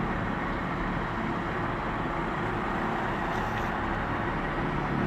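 Steady, even rumble of a motor vehicle's engine running, with a constant hiss over it.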